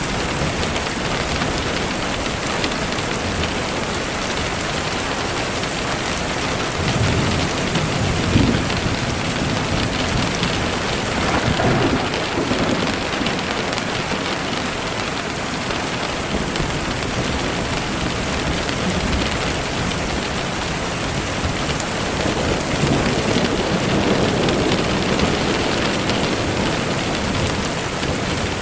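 Steady rain falling. Low rumbles of thunder swell up about seven seconds in, again around twelve seconds, and once more near the end.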